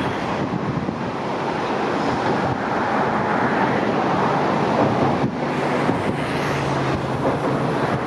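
Wind buffeting the microphone, with the low steady hum of a diesel railcar's engine underneath.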